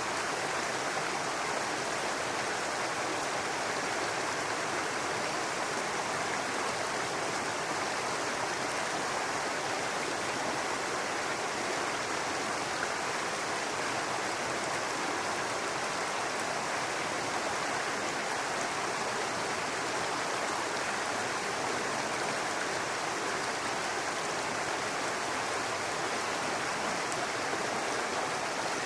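Brook water running and babbling over rocks, a steady even rush.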